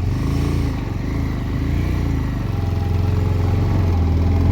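Motorcycle engine running steadily under load while climbing a hill road, heard from the rider's position, growing a little louder toward the end.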